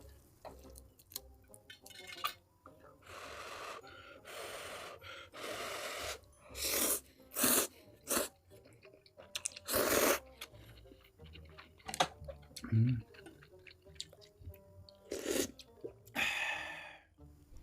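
Close-miked mukbang eating sounds: a run of noisy slurps and sharp, wet chewing and smacking bites.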